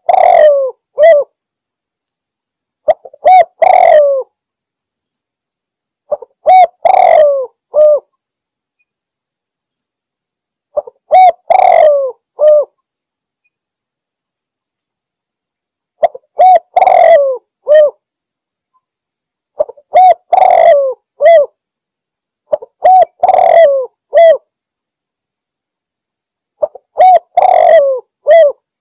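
Spotted dove (tekukur) cooing its territorial call, the lure call that draws in a rival. Eight loud coo phrases, each a few short notes running into a longer coo, come every three to five seconds with silence between them.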